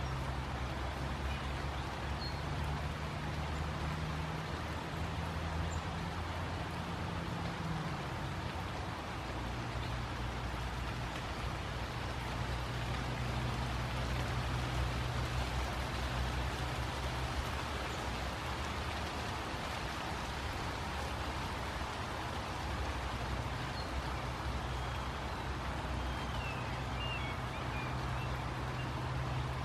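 Light rain falling steadily on trees and foliage, over a low, steady hum of distant city traffic. A few faint bird chirps come through, one early and a short cluster near the end.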